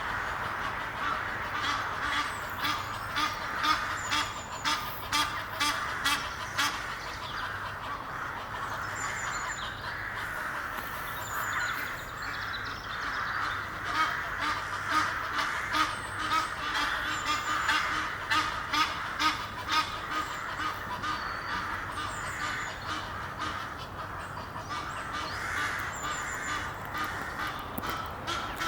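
A pair of Egyptian geese calling, many short harsh honks in quick runs that go on throughout.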